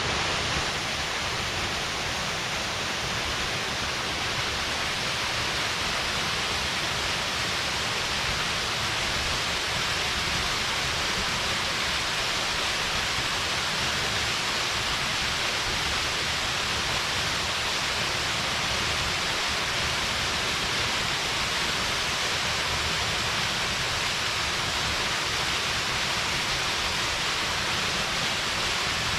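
Small mountain waterfall: water falling and splashing into a pool, a steady, even rushing without let-up.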